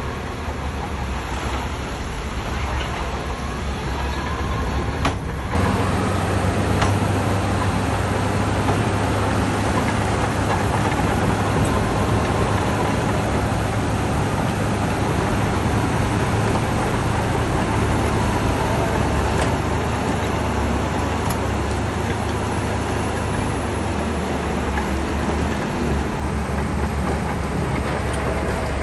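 Shantui bulldozer's diesel engine running steadily while working. It grows sharply louder about five seconds in and eases off slightly near the end.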